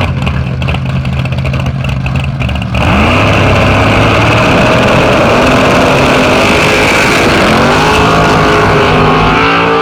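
Drag-race car (a Ford Probe) with its engine running steadily and crackling, then about three seconds in it launches into a loud full-throttle pass, the engine pitch climbing as it accelerates down the track.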